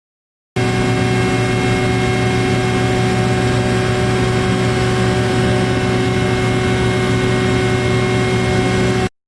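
Heavy power-plant generating machinery running steadily: a loud hum with several constant tones over a broad rush of noise. It starts abruptly about half a second in and cuts off abruptly near the end.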